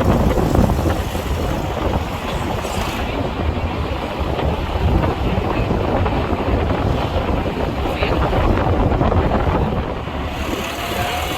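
A vehicle driving: steady engine and road rumble with wind buffeting the microphone.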